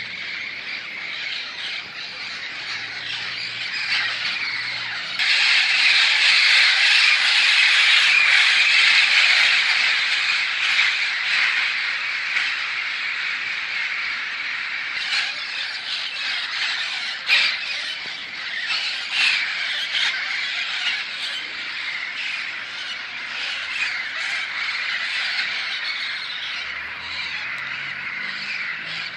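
A flock of parrots squawking continuously as it flies over, many harsh calls overlapping. It swells suddenly about five seconds in, is loudest for the next few seconds, then eases off a little.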